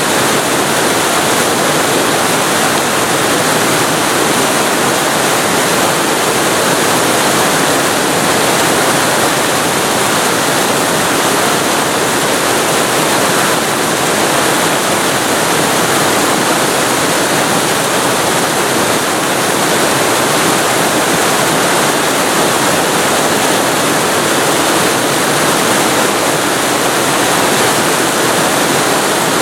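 Waterfall recorded close up: loud, steady rushing of falling water with no breaks or changes.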